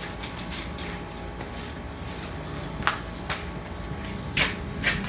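Metal parts of a tractor hydraulic pump being handled during disassembly: a few sharp clicks and clinks, about four in the second half, over a steady faint hum.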